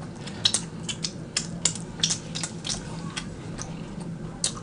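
A person chewing food close to the microphone, with irregular soft mouth clicks and smacks several times a second, over a faint steady low hum.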